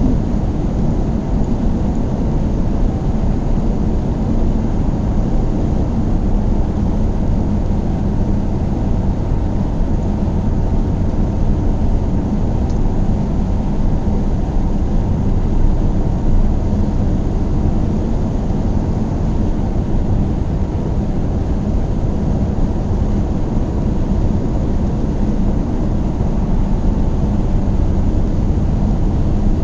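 Car driving at a steady pace: an even rumble of engine and tyre noise with no change in speed.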